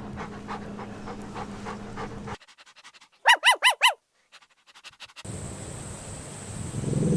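Puppy panting in quick, soft breaths, about four a second. After a cut, four quick high-pitched yips in a row, each rising and falling, louder than the panting, then a low sound builds near the end.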